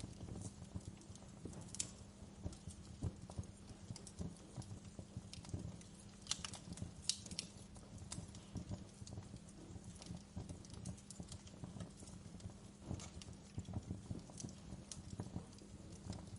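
Wood fire in a fireplace crackling, with irregular small pops and snaps, a few sharper ones, over a low steady rumble of the burning.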